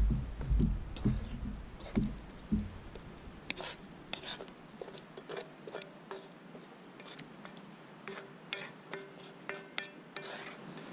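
Low thumps for the first couple of seconds, then a string of light clicks and small knocks, some with a brief ringing tone.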